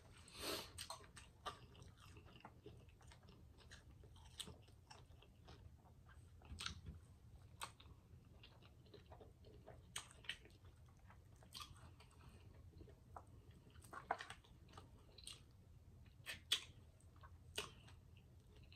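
Faint close-miked chewing and eating mouth sounds, with scattered small wet clicks and a few louder smacks.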